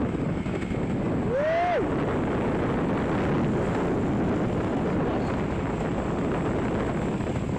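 Steady wind rush on the microphone over road and traffic noise from moving vehicles. About a second and a half in comes one brief tone that rises and then falls.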